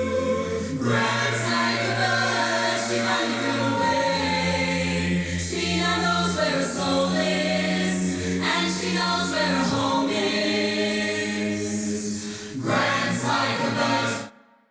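Choral music: voices singing held chords that change every two or three seconds, then cutting off suddenly near the end.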